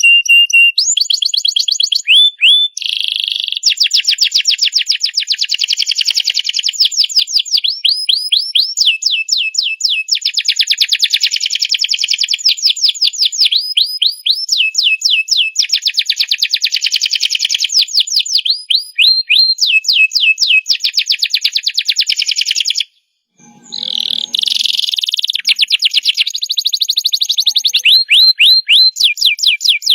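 Domestic canary singing a long, nearly unbroken song of rapid high trills and rolls, with quick repeated notes and short rising and falling slurs. The song stops for a moment about two-thirds of the way through, then resumes.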